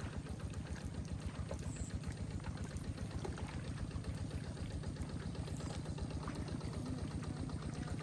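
A small engine running steadily at an even speed, with a fast, regular knock.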